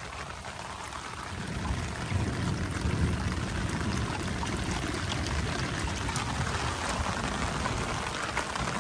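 Rainwater pouring and trickling through a storm drainage system in steady rain, brightening about six seconds in.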